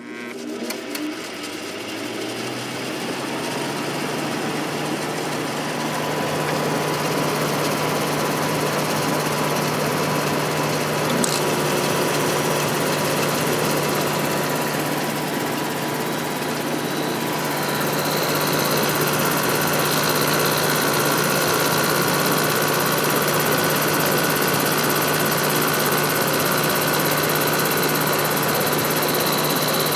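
Sharp 10500 BTU window air conditioner running with its compressor switched on: a loud, steady mechanical hum with a low drone that comes on at once, builds over the first few seconds, then holds, and grows slightly louder with added high whine about two thirds of the way through. The fan motor runs with it, its outer bearing noisy and junk rubbing against the fan, which the owner has not cured with oil.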